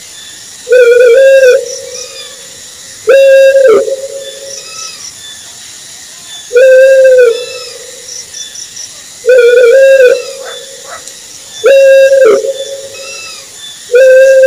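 Owl calling: a loud, hollow hoot about a second long with a slight rise and fall in pitch, repeated six times at intervals of two to three seconds.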